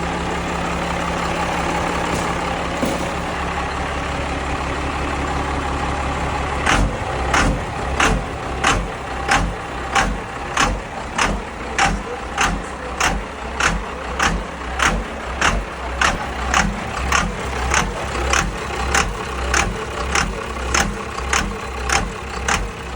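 Small vehicle engine idling steadily. About seven seconds in, a sharp clicking beat starts over it and keeps an even pace of about one and a half clicks a second.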